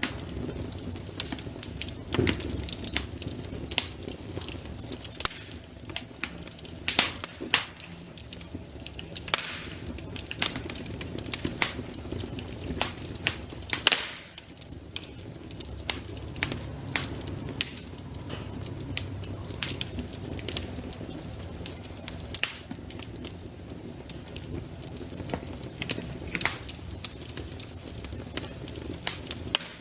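Wood fire burning in a fireplace, crackling with many irregular sharp pops over a steady low bed of flame noise.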